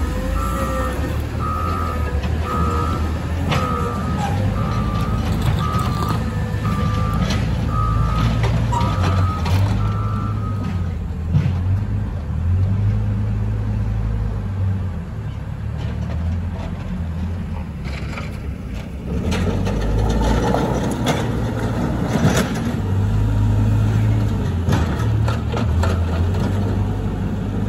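Caterpillar 120M motor grader's diesel engine running with a steady low rumble while its reversing alarm beeps at one pitch, a bit over once a second; the beeping stops about eleven seconds in and the engine carries on, its note rising and falling as the machine works.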